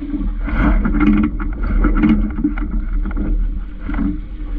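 Water slapping and gurgling against the hull of a small sailing dinghy in irregular washes, over a steady low rumble of wind on the microphone.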